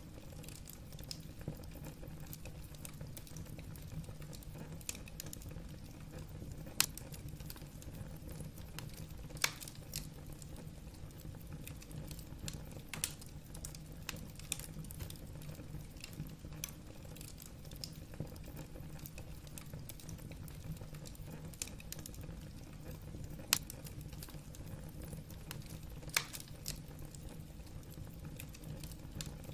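Wood fire burning in a fireplace, logs crackling: scattered small snaps and pops over a low steady rumble, with a handful of louder sharp snaps.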